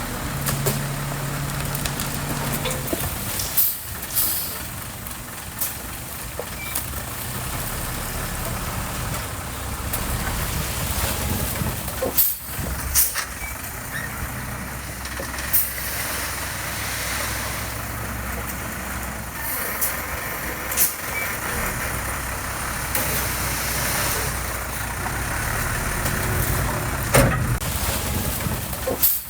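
Heavy earthmoving machinery running steadily, with sharp clanks and knocks at irregular intervals.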